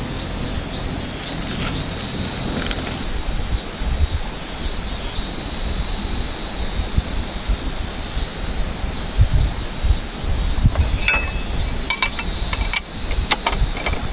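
A cicada singing in high, rhythmic pulses about three a second, which stop for a few seconds in the middle and then resume, over a steady rushing noise. A few short clicks come near the end.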